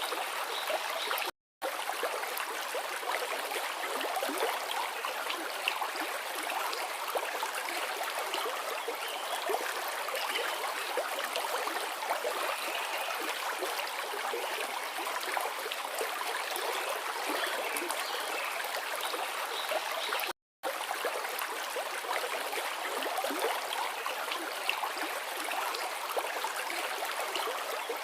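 Forest river flowing steadily over rocks, an even rushing and babbling of water. It is broken twice by a sudden dropout to silence lasting a fraction of a second, once about a second and a half in and once around twenty seconds in.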